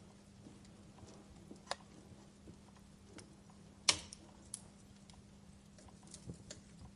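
Wood fire crackling: scattered sharp pops and snaps at irregular moments, the loudest about four seconds in, over a faint steady low hum.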